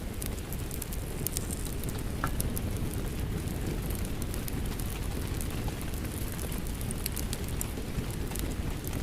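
Steady rain mixed with a crackling wood fire, the fire's sharp pops and snaps scattered irregularly over a constant low rush of rain.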